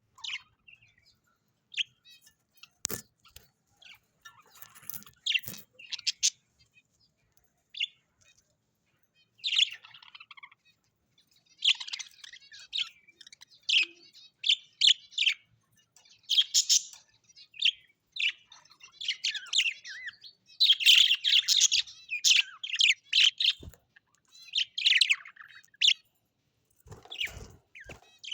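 Birds chirping and chattering in quick irregular runs of short, high notes, busiest in the second half. A few brief knocks near the start and near the end.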